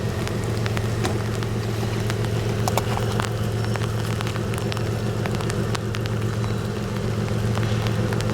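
An engine running steadily with a low hum, with scattered sharp ticks over it.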